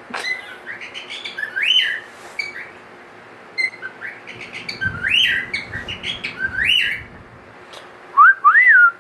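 Cockatiel whistling a run of short rising-and-falling calls, over and over, with the loudest pair near the end. The calls are mimicry of tropical birds, which the owner guesses he picked up at the pet store.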